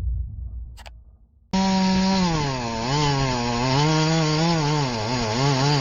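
Two-stroke chainsaw engine running, its pitch rising and falling over and over as the throttle is worked. It cuts in abruptly about a second and a half in, after a low rumble has faded away.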